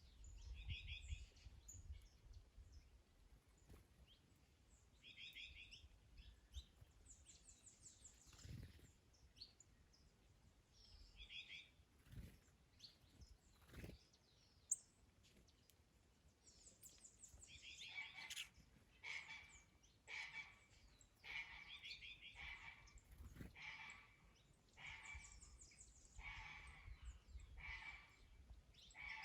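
Faint garden birdsong: scattered short high chirps, then from just past halfway a bird repeating a short song phrase about once a second. A low rumble of wind sits under it near the start and again near the end.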